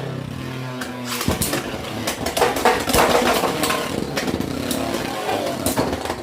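Beyblade X spinning tops whirring and clashing in a plastic stadium. There is a steady whir, then from about a second in a rapid run of sharp hits and scraping that stops abruptly at the end.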